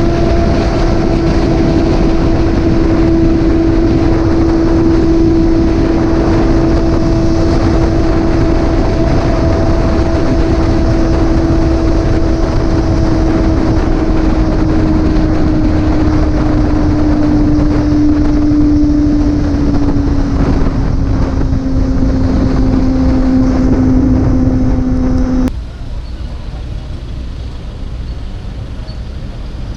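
Motorcycle riding at steady speed: a steady engine drone whose pitch eases slowly downward, under heavy wind rush on the microphone. About 25 seconds in, the sound drops suddenly to a quieter, steady road rumble.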